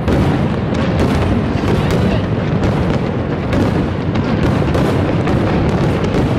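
Fireworks display going off in a dense barrage, many booms and crackles overlapping in quick succession with a continuous low rumble.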